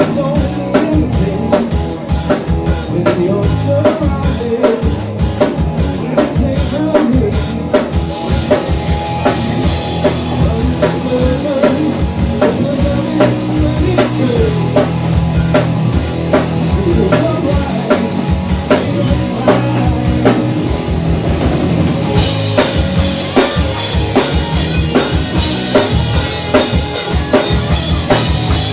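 Live rock band playing a song, driven by a busy drum kit, with cymbals crashing in loudly about three-quarters of the way through.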